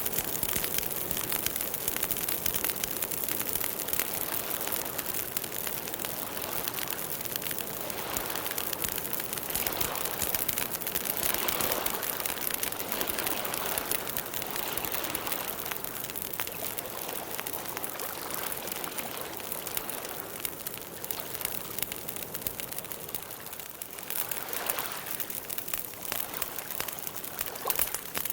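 Campfire crackling and hissing steadily, a dense run of small pops over a soft rush of burning, swelling a little now and then.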